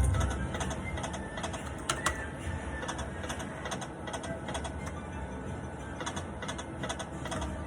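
Poker machine play sounds: a dense, irregular patter of small clicks with faint electronic tones underneath. The sound is loudest right at the start and settles over the first second.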